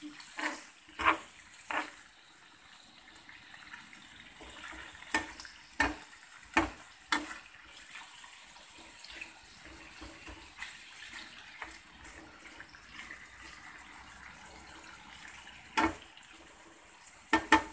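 Beef slices sizzling in a hot frying pan while metal tongs stir them, with scattered clicks of the tongs against the pan and a quick run of taps near the end.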